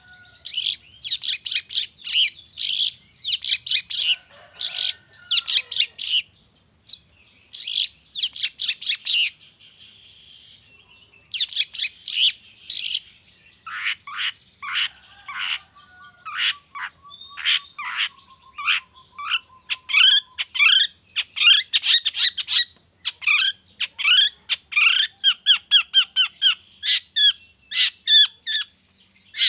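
Long-tailed shrike (cendet) singing: fast strings of short, sharp, chattering notes, with a brief lull about a third of the way through and then quicker runs of repeated notes toward the end.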